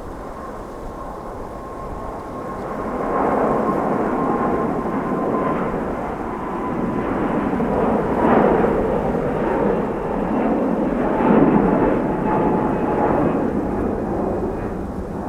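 Jet airliner engines rumbling as the plane passes. The sound swells about three seconds in and stays loud, with a faint high engine whine that slowly falls in pitch.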